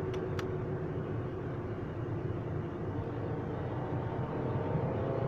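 A vehicle engine running steadily, its pitch starting to rise a little near the end. Two faint clicks sound just after the start.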